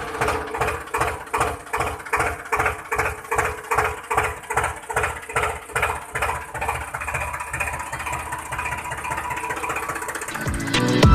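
Tractor engine idling with an even thumping beat, about three to four beats a second, which grows weaker and quicker near the end.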